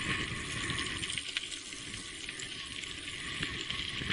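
Steady hiss of rain, with scattered small ticks of drops.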